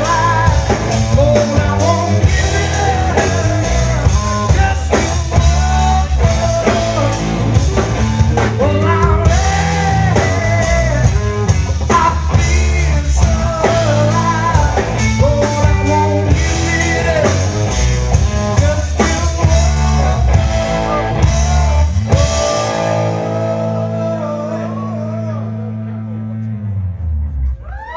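Live rock band playing with electric guitar, drum kit and singing. About 22 seconds in the band hits a final chord and lets it ring for several seconds as it fades, then it stops just before the end: the close of the song.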